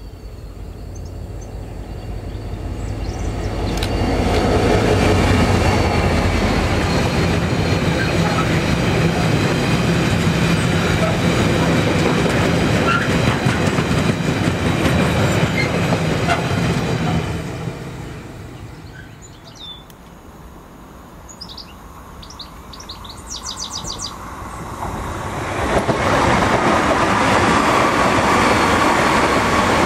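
An Irish Rail 071 class locomotive's EMD V12 two-stroke diesel approaches and passes, building up over the first few seconds into a steady low engine drone, with its Tara Mines ore wagons rolling and clattering behind until it fades away. After a short lull with birds chirping, a DART electric commuter train passes, its wheels and running gear loud again from about five seconds before the end.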